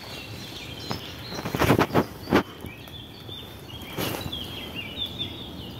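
Songbirds singing in short chirping phrases, with a handful of brief rustles mixed in, mostly around two seconds in and once more near four seconds.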